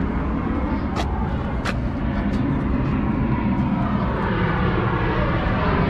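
Steady rumble of a vehicle engine running, with two sharp clicks about a second in.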